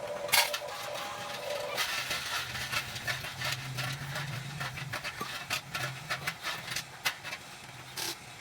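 Huina 1550 RC excavator at work: a small electric motor hum through the middle, with many sharp clicks and knocks throughout.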